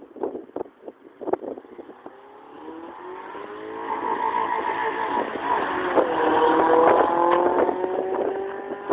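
Vauxhall Corsa SRi hatchback driving past under acceleration: the engine note climbs in pitch and grows louder as the car approaches, loudest about seven seconds in, then eases slightly as it goes by. Wind knocks on the microphone in the first two seconds.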